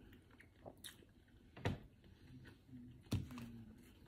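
Close-miked chewing of a mouthful of Egg McMuffin, quiet, with two sharp mouth smacks, one a little under two seconds in and one about three seconds in.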